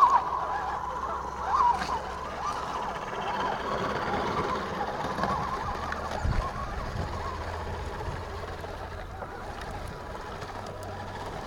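Electric motors and gears of radio-controlled crawler trucks whining, the pitch wavering up and down with the throttle. There are louder bumps right at the start and again under two seconds in.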